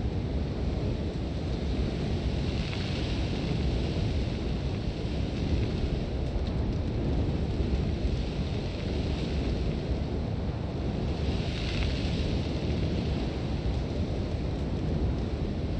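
Sandstorm: strong, steady wind with a deep rumble and a hiss of blowing sand that swells with gusts, about three seconds in and again near twelve seconds.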